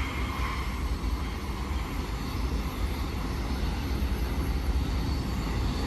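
Steady low rumble of a distant BNSF freight train, its diesel locomotives working as they come down the grade.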